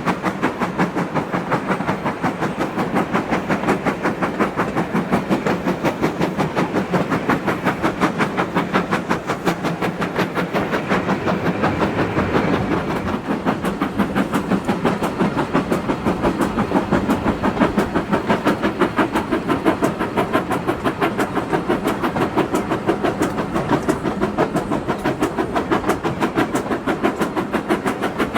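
Steam locomotive No. 9351, a GWR-style 2-6-0, working hard under steam, its exhaust beating in a fast, even rhythm.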